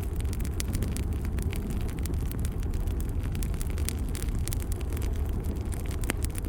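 Wood fire burning in a fireplace: a steady low rumble from the flames with scattered, irregular sharp crackles and pops from the burning wood.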